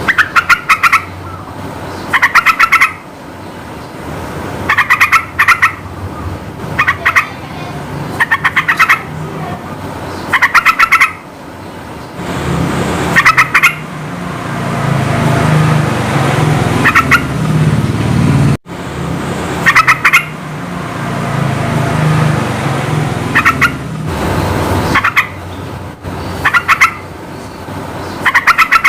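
Yellow-vented bulbul (trucukan) calling in short, loud phrases of rapid bubbling notes, repeated every second or two. A low rumble runs underneath, strongest in the middle part.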